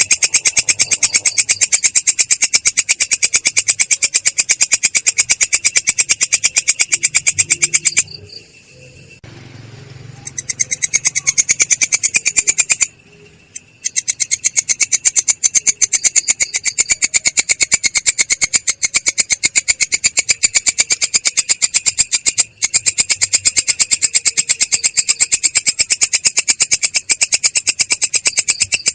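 Bird-song training recording (masteran) of high, fast chirping in a very even rhythm of several chirps a second. It drops out briefly twice, about a third of the way in and again near the middle.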